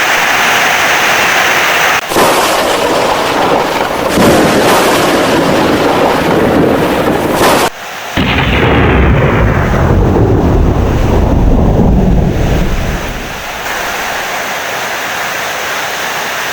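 Heavy rain with thunder rumbling. The sound breaks off and resumes abruptly about two seconds and about eight seconds in; a deep rumble is strongest in the middle, then it settles to steadier rain near the end.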